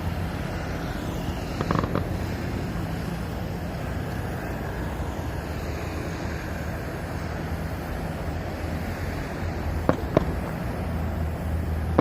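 Firework pops over a steady low rumble of wind-like background noise: a small cluster about two seconds in, then two sharp bangs in quick succession about ten seconds in.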